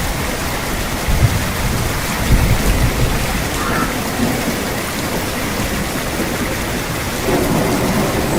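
Steady heavy rainfall, an even hiss of drops, with a low, uneven rumble of thunder underneath.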